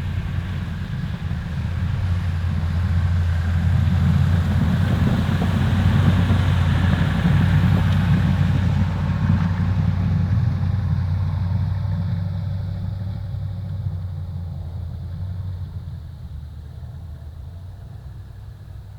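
A motor vehicle's engine with a steady low hum that grows louder to about six seconds in, then fades away by about sixteen seconds, as it passes and moves off.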